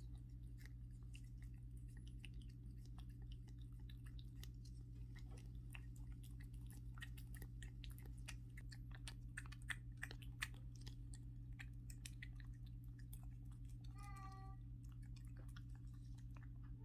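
Cat licking and smacking a churu puree treat: many quick, wet clicking licks, densest in the middle, over a steady low hum. A short mew comes near the end.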